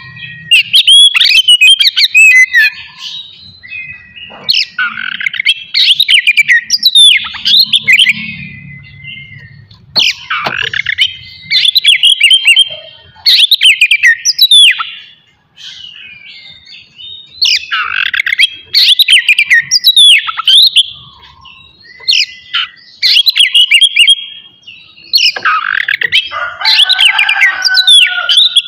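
Oriental magpie-robin (kacer) singing loudly in repeated bouts of rapid, varied phrases: sweeping whistles and chattering notes, each bout a second or two long with short pauses between.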